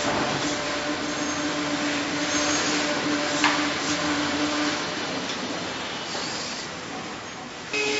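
Factory machinery running: a steady rushing noise with a hum that stops about five seconds in, and a single sharp click about three and a half seconds in.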